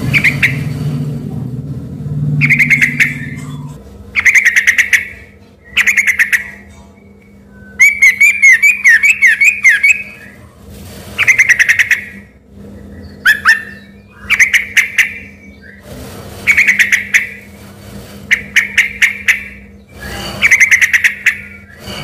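Yellow-vented bulbul (trucukan) singing in short bursts of fast, chattering notes every second or two, with one longer warbling phrase about eight seconds in. Its song resembles a white-rumped shama's (murai batu).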